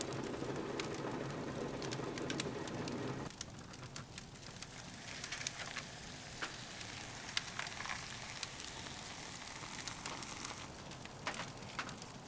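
Firewood crackling in a titanium wood stove, with scattered sharp pops. A steady low rushing noise under it for the first three seconds stops abruptly.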